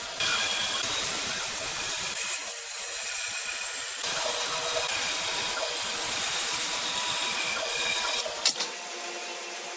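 A power tool working wood, a steady rasping noise. The sound changes abruptly about four seconds in, and again near the end, where it turns quieter.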